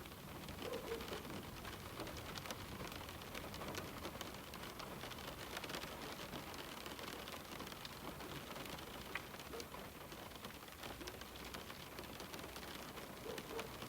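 Steady rain falling on a window pane, with many separate drops tapping on the glass over a continuous hiss.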